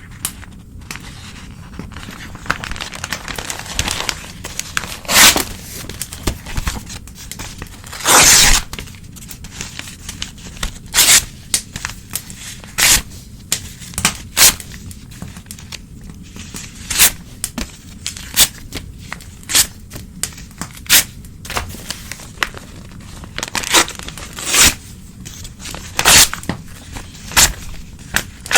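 Old newspaper being torn by hand: a run of separate rips, one every second or so, some short and sharp and some longer, over a steady soft rustle of paper.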